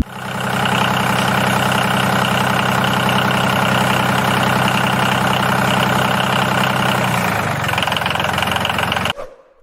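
A small motor running steadily with a fast, even rattle, most likely the homemade chaff cutter model's drive. Its sound thins about seven and a half seconds in, and it cuts off abruptly about half a second before the end.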